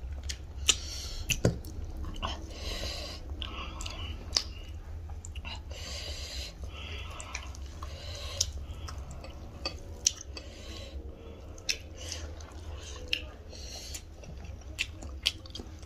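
Two people chewing rice and chicken curry eaten by hand, with wet mouth noises and scattered sharp lip-smacking clicks, over a steady low hum.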